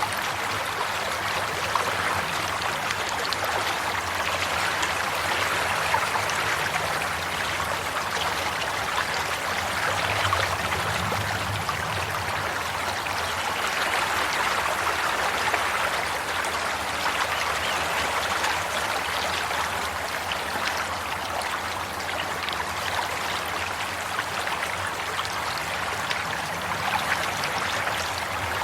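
Water flowing steadily in a stream, an even babbling and trickling.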